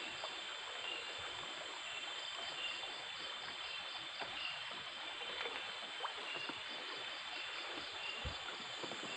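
Night ambience of a small stream with insects: a steady high-pitched insect drone over the water's hiss, and a short chirp repeating about once a second. A brief low thump comes about eight seconds in.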